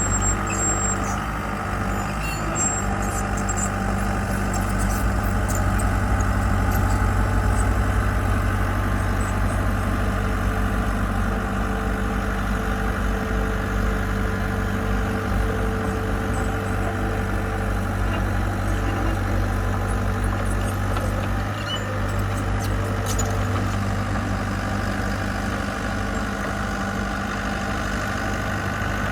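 Diesel engine of a construction machine running steadily, a constant low hum that holds at the same speed.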